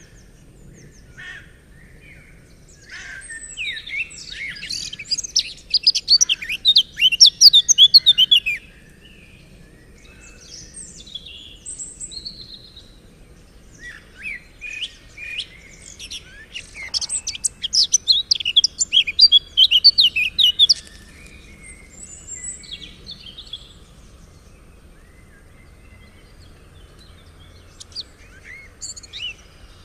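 Songbirds singing: two long loud phrases of rapid chirping notes, the first starting about three seconds in and the second about halfway through, each lasting around five seconds, with scattered short calls between them.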